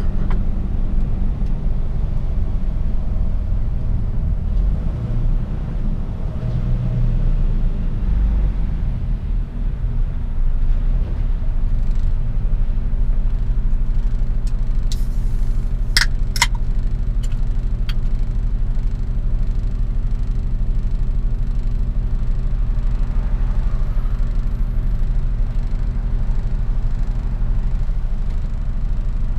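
Mercedes-Benz Actros truck driving, its engine and road noise making a steady low drone, with a few sharp clicks or knocks about halfway through.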